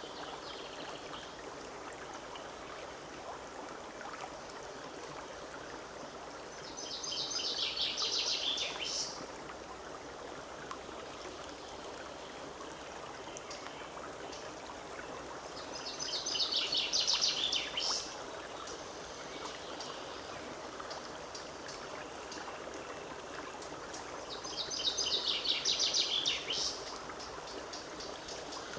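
Forest stream flowing steadily, with a songbird singing the same short phrase of rapid notes three times, about every nine seconds.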